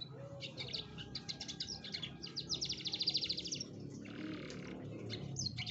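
Domestic canary singing: a run of quick chirps and trills, with a dense, fast rolling trill a little past the middle, over a low steady hum.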